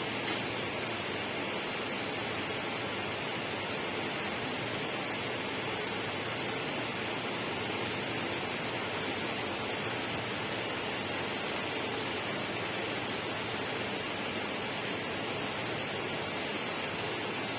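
Steady, even rushing noise that does not change or break.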